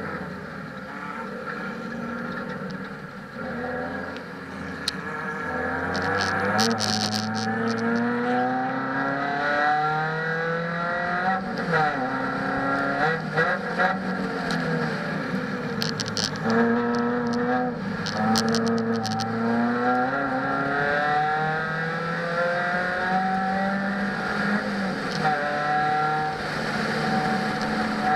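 Proton Savvy's 1.2-litre D4F four-cylinder engine heard from inside the cabin while being driven hard around a circuit. Its pitch rises again and again under acceleration and falls back at each shift or lift. A few sharp knocks come in between.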